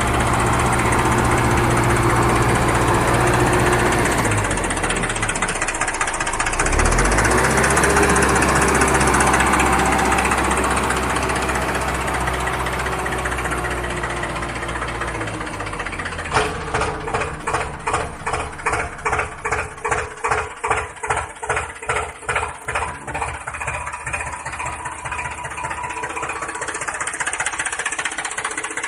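Engine running sound, steady at first, then from a little past halfway an even chugging of about two pulses a second.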